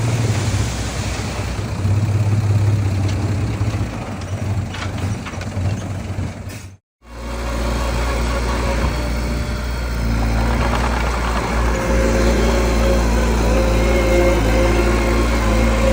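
Heavy diesel engine of earthmoving machinery running steadily. About seven seconds in the sound cuts out briefly, and a lower-pitched engine sound takes over.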